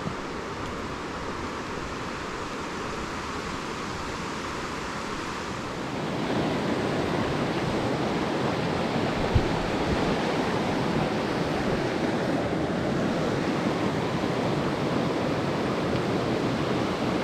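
Mountain stream water rushing, a steady noise that grows louder about six seconds in, with one brief knock near the middle.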